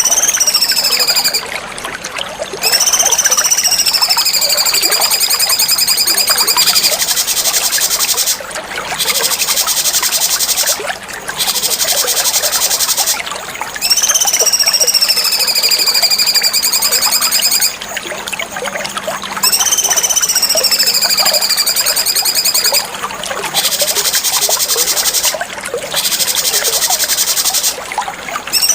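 Cucak cungkok birdsong: long drawn-out whistles that rise briefly and then slowly fall, repeated several times and alternating with dense, very fast, high buzzy trills, over a steady trickle of water.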